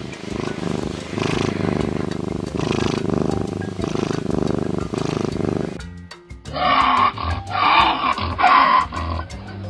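A big cat, lion or tiger, growling and roaring over background music. The sound breaks off about six seconds in, followed by a run of four loud roars.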